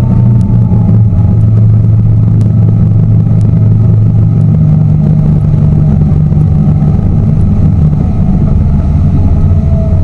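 Tour boat's engine running steadily: a loud, low drone with small shifts in pitch.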